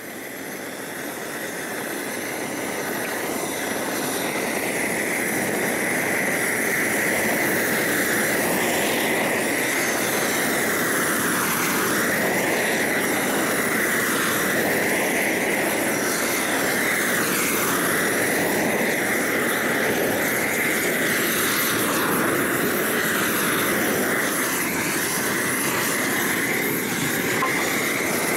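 Homemade propane roofing torch burning steadily as it heats torch-on roofing felt, a loud rushing noise that swells over the first few seconds and then holds, wavering every couple of seconds.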